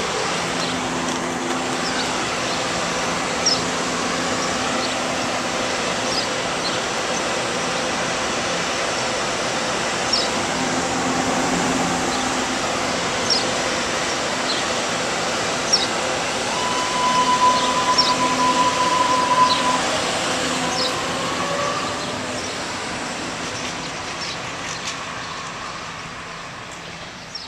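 MBTA Green Line light-rail train running past at close range: a continuous rumble with a steady low motor hum, and scattered short high chirps. In the middle a steady high tone holds for about three seconds, the loudest part, and the train sound fades away over the last few seconds as it moves off.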